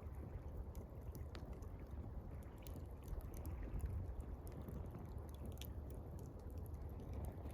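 Gentle water lapping in a steady low wash, with faint scattered crackles from a campfire.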